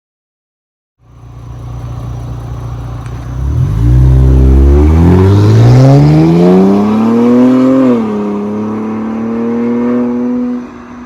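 Exhaust of an Infiniti Q50 3.0t's twin-turbo V6, straight-piped with the muffler and resonator removed, running loud: after a brief silence the revs climb steadily for about four seconds, the pitch drops suddenly, and the engine holds a steadier note before easing off near the end.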